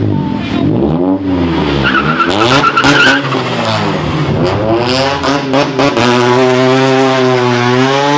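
Car engine revved hard several times, rising and falling, with a tire squeal about two seconds in and a few sharp pops. From about six seconds the revs climb steadily and stay high, as in a burnout.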